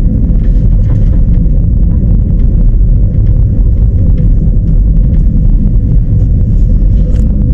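Passenger train running on the rails: a loud, steady low rumble with a faint steady hum and scattered small rattling clicks.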